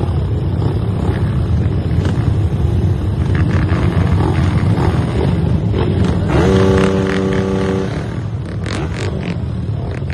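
Off-road motorcycle engines running with a loud, steady low rumble. A steady tone sounds for about a second and a half past the middle.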